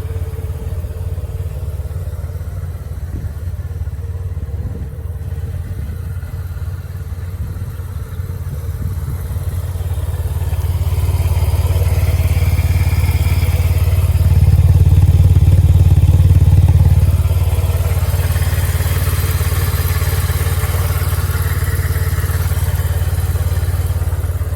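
Yamaha TMax 500 scooter's parallel-twin engine running steadily just after starting. It grows louder about halfway through, holds for a few seconds, then settles back to a steady run.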